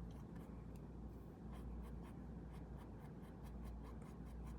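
Faint, irregular scratchy strokes of a drawing or colouring tool on paper.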